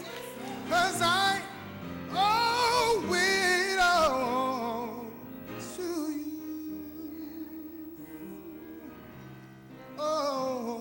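Gospel singing with accompaniment: a solo voice sings bending, ornamented runs over the first few seconds, then held accompaniment chords carry on alone until the voice comes back near the end.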